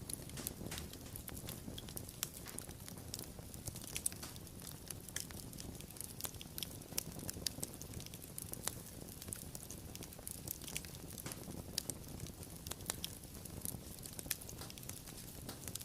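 Wood fire crackling: irregular sharp pops and snaps over a low, steady rumble of flames.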